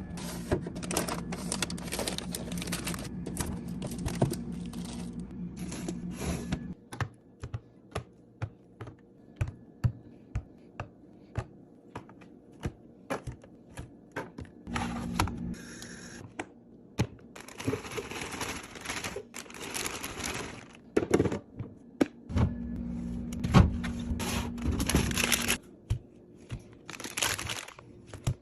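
Household items being handled while restocking a fridge: many sharp clicks and knocks as containers are set down, with three stretches of steady hiss over a low hum.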